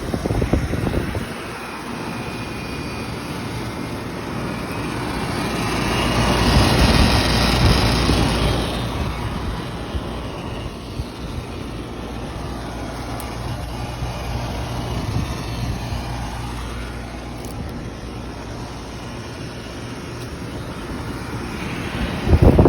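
Several residential outdoor air conditioner and heat pump units (Payne, Ruud, Carrier and Kenmore) running together: a steady compressor hum under the rush of the condenser fans. The sound swells louder about six to eight seconds in, with a brief loud rush near the end.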